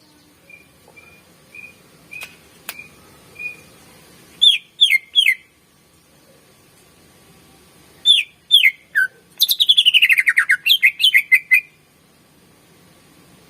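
Greater green leafbird (cucak ijo) singing: soft short whistled notes, then loud whistles that sweep downward in groups of three, and about nine seconds in a fast trill that slides down in pitch, followed by a few more quick notes.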